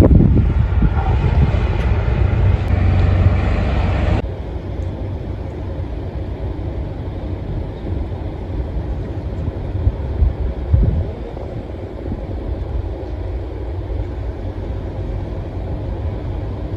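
Wind buffeting the microphone over the low rumble of a fishing boat's engine. An abrupt cut about four seconds in leaves a quieter, steady rumble.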